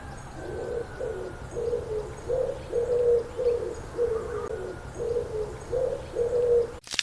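Pigeon cooing: a run of low, soft notes, about ten over six seconds, repeated in a loose rhythm. It cuts off abruptly near the end.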